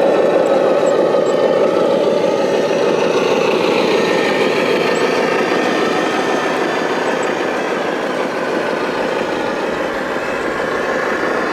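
Radio-controlled heavy truck running steadily, with a mechanical drive sound and a faint whine that drifts slowly in pitch.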